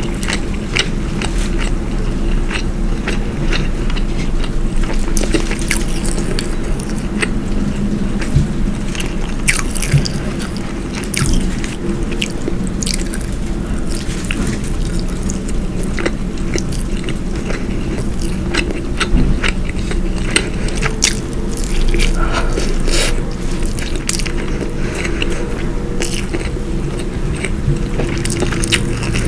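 Close-miked chewing and wet mouth sounds of someone eating, with many small irregular clicks and smacks.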